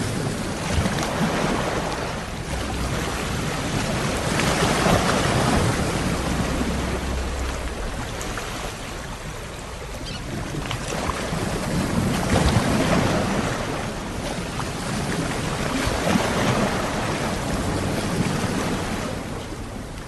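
Ocean waves washing onto a shore, the surf swelling and falling back every several seconds, with a low rumble of wind on the microphone.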